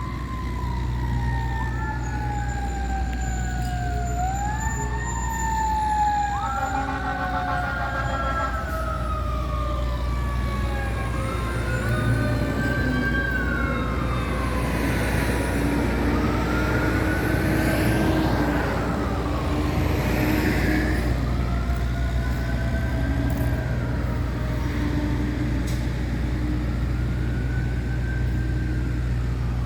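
Emergency vehicle siren wailing, its pitch sweeping slowly up and down again and again, with two sweeps overlapping in the first several seconds. Under it runs a steady low rumble.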